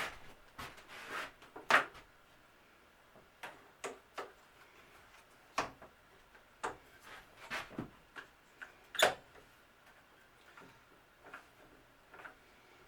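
Irregular knocks and clunks of wooden parts and tools being handled and set down on a workbench, two of them louder, about two seconds in and near nine seconds in.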